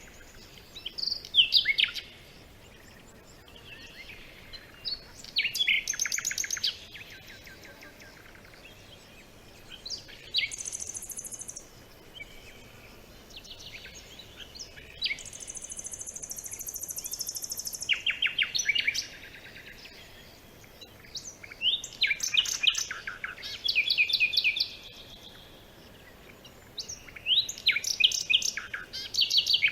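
Songbirds singing: bouts of quick, repeated chirping notes come every few seconds with short pauses between. A high, thin trill is held for about three seconds midway.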